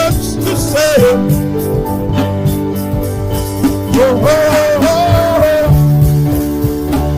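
Worship music with drums and held instrumental chords, and a voice singing a wordless melodic line about a second in and again from about four to five and a half seconds.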